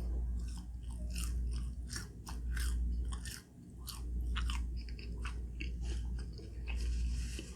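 Close-miked chewing of a last mouthful of dim sum, with many short, irregular wet mouth clicks over a low steady hum.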